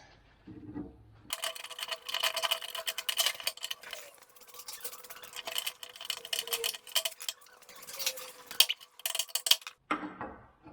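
Rapid metallic clicking and clinking of hand tools working on metal parts. It starts about a second in and cuts off abruptly near the end, over a faint steady tone.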